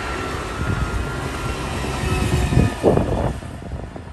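Passenger train passing at speed close by: a rising rumble with a faint steady whine, peaking in a loud burst of wheel clatter about three seconds in, then fading away.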